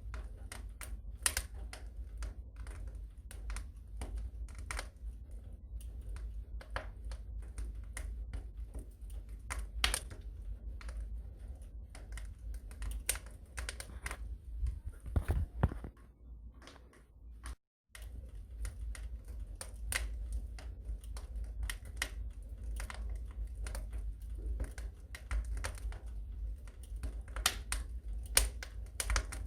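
Wood fire crackling in a fireplace: irregular snaps and pops over a low rumble of burning flames. The sound drops out completely for a moment a little past halfway through, then the crackling resumes.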